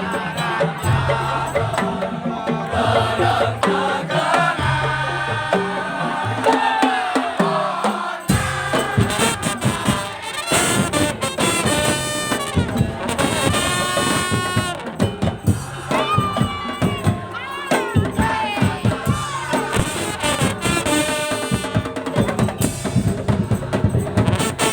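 Madurese daul (tongtong) percussion band playing a song: steady drum beats under a gliding melodic lead line.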